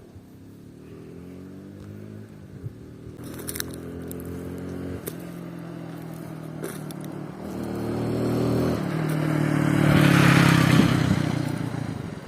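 Alpha moped engine, its exhaust modified to be loud, running and revving in rising and falling pitch, growing louder to a peak near the end and then easing off.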